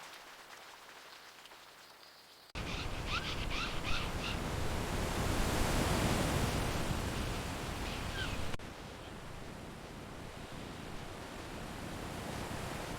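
Outdoor ambience of steady rushing noise, with a quick series of short bird chirps about three seconds in and a couple more near the middle. The background changes abruptly twice, as at cuts between clips.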